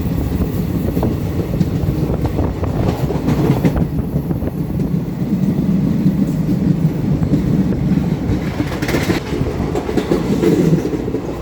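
Train running on the rails: a steady low rumble with wheel clatter over the rail joints.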